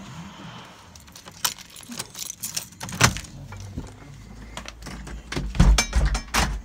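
Fireworks going off: a rapid series of sharp cracks and pops, with a loud bang about three seconds in and a dense cluster of louder bangs with a deep boom near the end.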